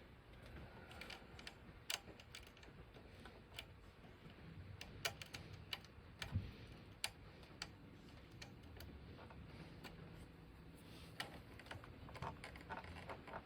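Faint, scattered small clicks and taps of hands handling wires, terminals and small tools during electrical wiring work.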